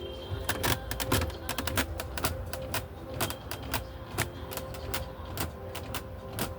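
A run of sharp, irregular mechanical clicks, a few each second.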